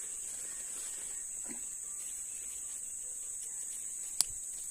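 A steady high-pitched chorus of insects such as crickets, with one sharp click about four seconds in.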